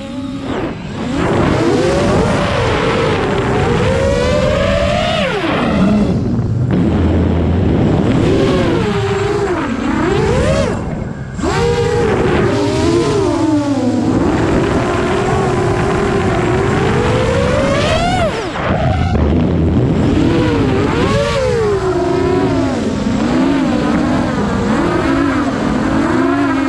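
A vehicle engine revving up and down, its pitch constantly rising and falling, with brief drops in level about eleven and eighteen seconds in.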